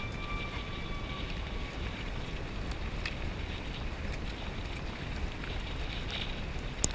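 Steady rushing wind noise on a GoPro microphone while moving, with scattered light clicks and rattles and one sharp knock near the end.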